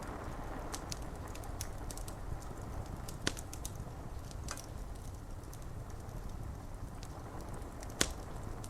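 Fire crackling with scattered sharp pops, two louder ones about three seconds in and near the end, over a steady patter of rain on window glass.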